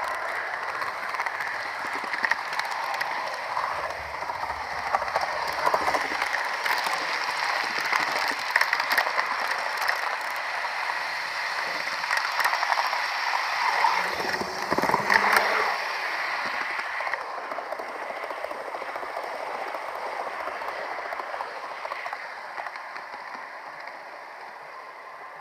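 Model train running on its track: a steady mechanical whir with a constant patter of small clicks from the wheels and gearing. It grows louder for a moment about halfway through, then fades over the last several seconds.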